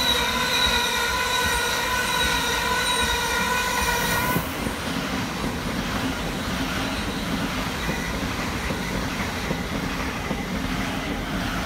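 Thameslink Class 700 electric multiple unit running past close by, its wheels rumbling steadily on the rails. A steady high whine sounds over the first four seconds or so and then cuts off suddenly.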